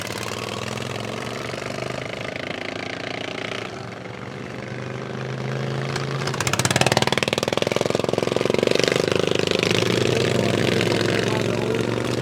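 Racing lawn mower engines running on the track, getting clearly louder about seven seconds in as the mowers come closer.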